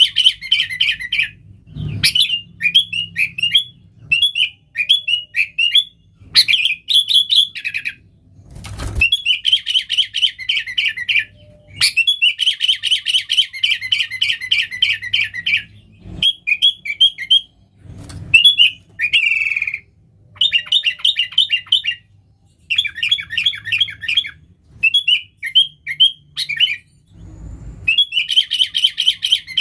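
Sooty-headed bulbul (kutilang) singing vigorously in bursts of fast, chattering phrases of rapidly repeated notes, each lasting one to a few seconds with short pauses between them. A few dull low thumps sound between phrases.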